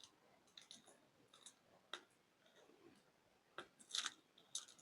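Faint scattered clicks and light plastic ticks from a wristwatch and its protective plastic film being handled, with a small cluster of clicks near the end.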